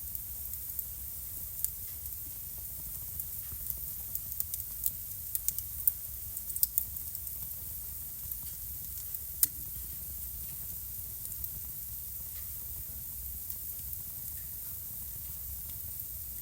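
Wood fire crackling in a fireplace: sharp pops and snaps over a steady low rumble and hiss of the flames. The snaps come thick and fast in the first half, with one loud pop a little after the middle, then thin out.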